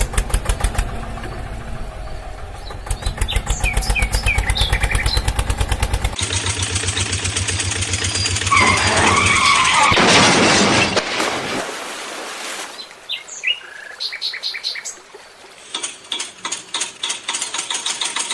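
Vehicle engine chugging with an even, rapid beat while birds chirp. A louder, noisier stretch with gliding pitch comes about nine to eleven seconds in. Quieter chirping and rhythmic pulses follow.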